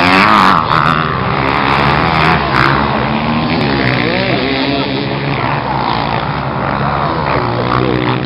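Motocross motorcycle engines running and revving, with several engine notes overlapping and rising and falling in pitch.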